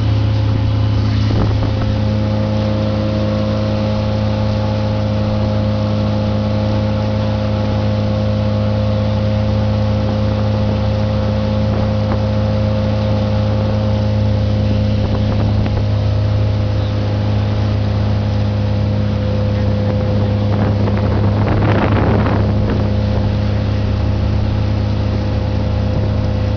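Motorboat engine running at a steady speed while the boat is underway, a constant even drone that holds its pitch. A short, louder rush of noise comes near the end.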